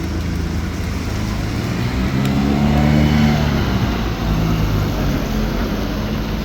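A motor vehicle drives past on a rain-wet street. Its engine hum builds to its loudest about three seconds in and then fades, over a steady hiss of rain and wet road.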